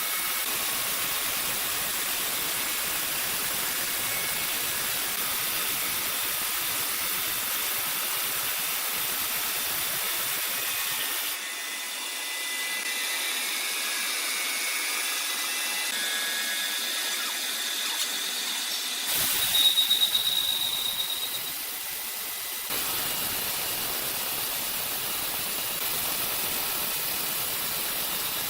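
Sawmill and woodworking machinery running, the noise changing abruptly several times as one machine gives way to another. About twenty seconds in, a loud high-pitched squeal sounds for a couple of seconds.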